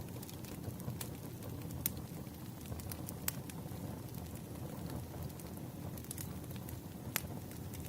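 Burning firewood crackling, with scattered sharp pops over a steady low rumble; the loudest pop comes about seven seconds in.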